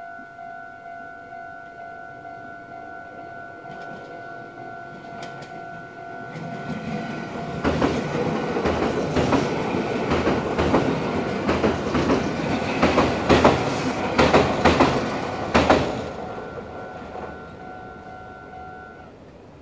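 Level-crossing warning bell ringing steadily while a Meitetsu 6500 series and 6800 series electric train runs through. The train builds from about six seconds in, with its wheels clicking over the rail joints loudest in the middle, and fades by about sixteen seconds while the crossing bell keeps ringing.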